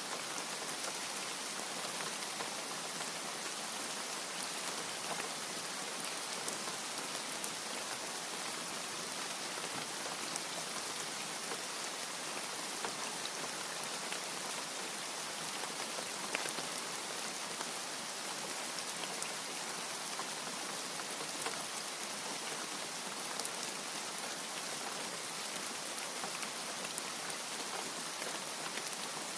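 Steady rain falling and pattering on a surface, with scattered individual drop ticks and no thunder.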